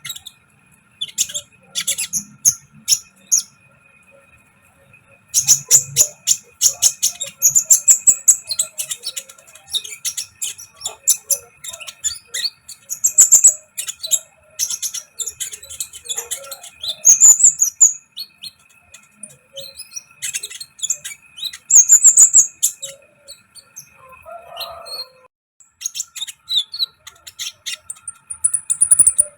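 A kept sunbird (kolibri ninja) chirping and twittering in quick, very high-pitched runs of short notes and quick sweeping calls, with a brief pause a few seconds in.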